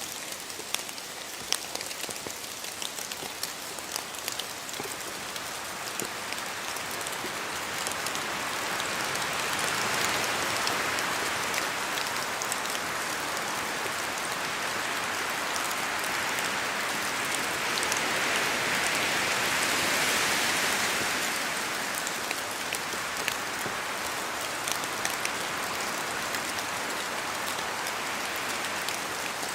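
Steady rain in a forest, with many scattered drops ticking as they fall from the trees. A wind gust swells the sound about a third of the way in and again past the middle, then eases.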